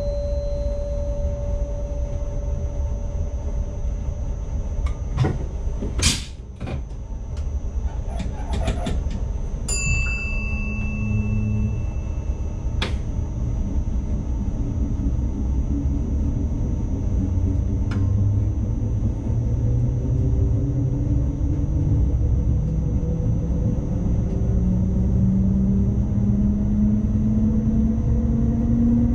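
ICMm electric multiple unit running, heard from the driver's cab: a steady rumble of wheels on track, a cluster of clicks and knocks about six seconds in, and a short high beep near ten seconds. In the last third a traction-motor whine rises steadily in pitch as the train accelerates.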